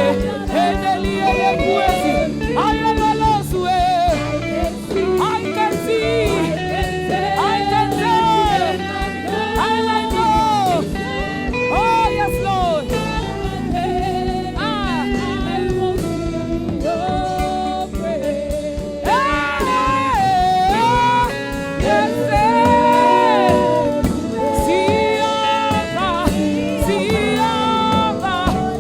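Gospel worship song: a lead voice singing a melody over steady instrumental backing.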